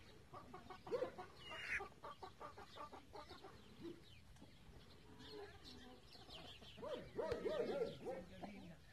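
Chickens clucking softly, mixed with faint chirping of small birds; the clucking grows busier for a couple of seconds near the end.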